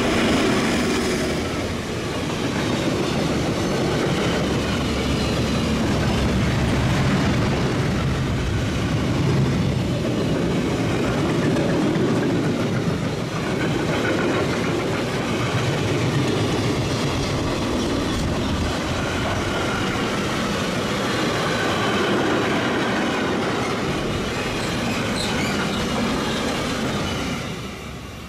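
Freight train passing close by: an SBB Re 4/4 II electric locomotive goes by at the start, followed by a long string of empty double-deck car-carrier wagons running past steadily with wheels clattering over the rails. The sound drops away as the last wagon passes, near the end.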